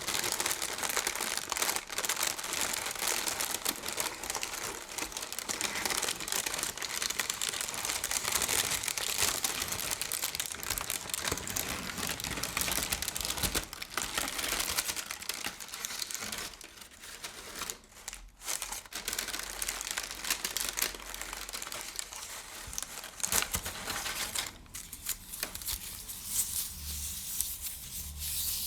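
Continuous crinkling and rustling, a dense run of tiny crackles with a brief lull about two-thirds of the way in, growing quieter for the last few seconds.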